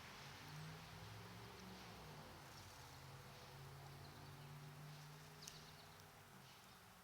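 Faint, scattered bird chirps, a few short high notes with one sharper call about five and a half seconds in, over a steady hiss and a low hum.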